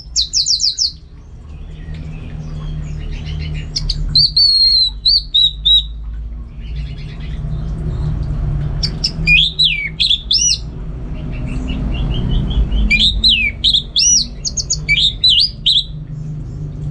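Orange-headed thrush singing in several separate phrases of rapid, varied whistles and trills with pauses between them, over a steady low hum.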